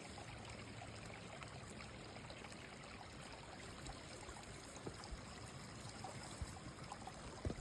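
Shallow creek water trickling and flowing through a small stick-and-leaf dam, a steady faint babble.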